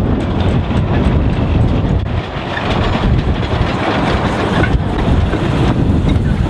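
Narrow-gauge train running, a loud steady rumble.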